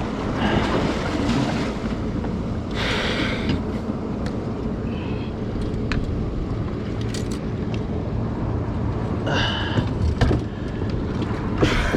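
Steady wind and water noise around a small fishing boat, with a few short splashy bursts of hiss.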